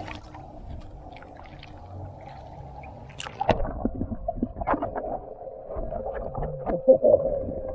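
Robot pool cleaner running in the water: a steady motor hum that comes in about halfway through and grows stronger, with knocks and splashing around it.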